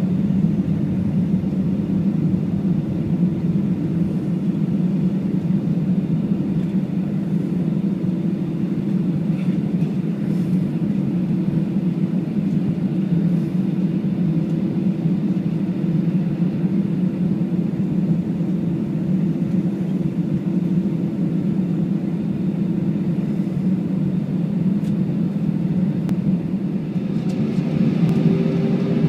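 Steady low rumble of an Airbus A320 heard from inside the cabin, from its engines and the airframe. Near the end it grows louder, with more hiss and a rising whine.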